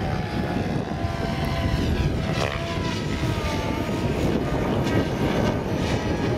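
SAB Goblin 700 electric RC helicopter in flight, its motor and rotor whine bending up and down in pitch over a steady rushing noise.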